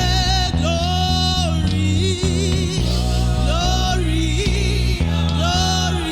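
Gospel worship song: a sung melody with held, wavering notes over a steady keyboard and bass accompaniment.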